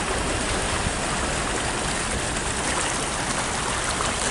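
Floodwater rushing and splashing against a car's front end and engine bay as the car drives through deep water, a steady wash of water noise.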